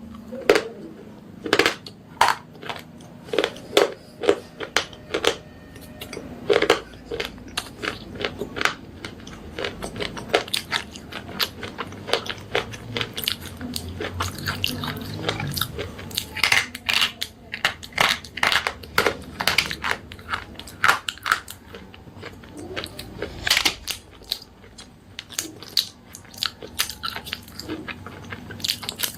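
Slate pencils being bitten and chewed: a long run of sharp, irregular crunches and snaps, several a second.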